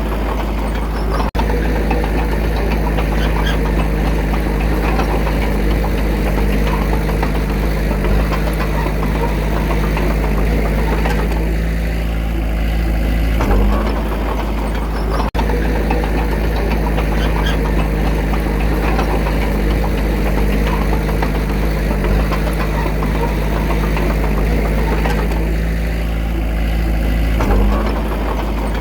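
Diesel engine of a small Komatsu D21A bulldozer running steadily at work, with a short rise in engine note about every fourteen seconds.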